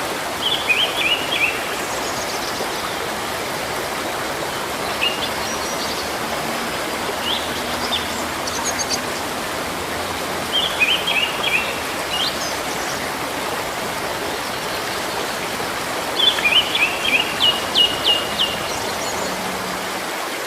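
Steady rush of flowing water, with small birds chirping over it: quick clusters of short high notes near the start, about halfway and near the end, and a few single calls between.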